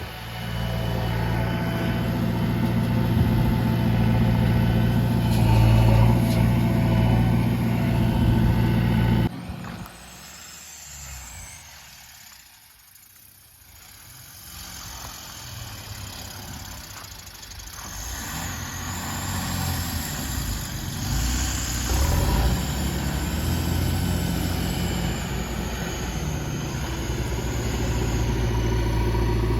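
Diesel engine of the backhoe loader or truck running steadily, then cutting out suddenly about nine seconds in; after a quieter stretch the engine sound builds back up and runs steadily again through the second half.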